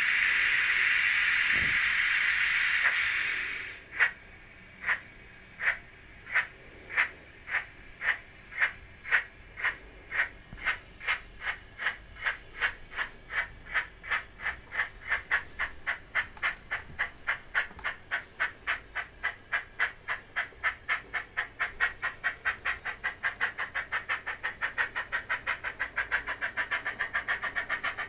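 Steam locomotive sound from the onboard speaker of a sound-fitted Graham Farish N gauge SECR N class model: a loud hiss of steam for about four seconds, then exhaust chuffs. The chuffs start slow and steadily quicken as the locomotive pulls away.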